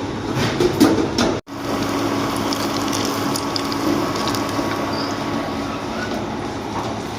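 Sabudana cutlets deep-frying in hot oil: a steady sizzle with scattered crackles, cut off for an instant about a second and a half in.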